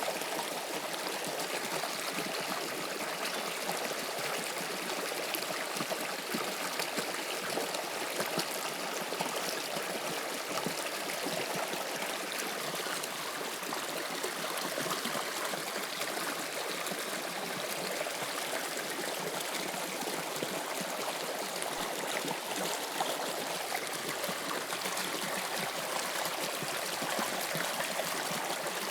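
Toronto subway Line 2 train running between stations: a steady rushing noise of wheels and tunnel air, even throughout with no braking or door chimes.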